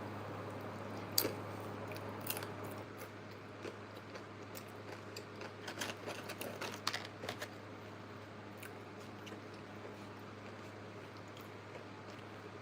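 A person eating close to the microphone, with crunching bites and mouth clicks: a couple near the start and a busy run in the middle. A steady low hum runs underneath.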